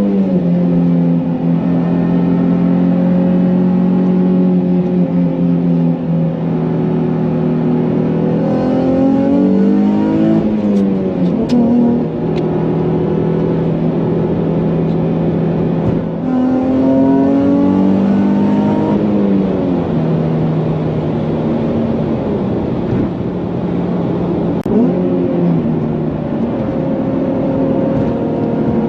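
Nissan Fairlady Z engine running through an aftermarket muffler, the revs rising and falling several times.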